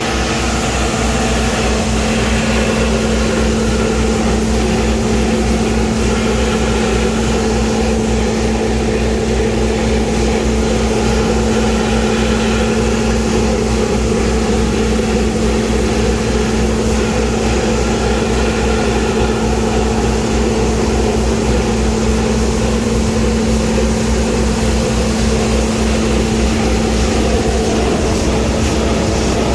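Scania vacuum loader truck (Naaktgeboren Vacu-press 8000) running steadily, a constant droning hum with no change in speed.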